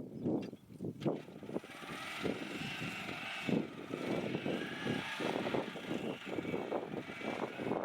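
Electric tractor's drive motor whining steadily, coming in about a second and a half in, over an uneven lower rumble.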